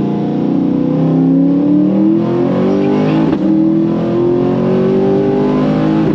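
Twin-turbocharged V8 of a C8 Corvette under full throttle, accelerating hard, its note climbing steadily in pitch. It breaks briefly about three and a half seconds in and again at the very end as it shifts up.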